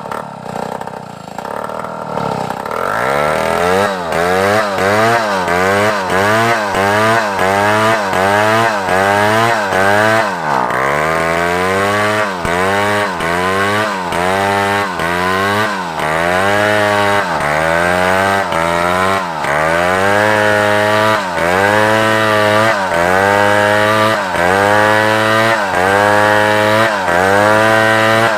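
Large chainsaw idling, then revving up about two and a half seconds in and cutting through African wood. The engine pitch rises and dips over and over, about once a second, as the chain bites and eases in the cut.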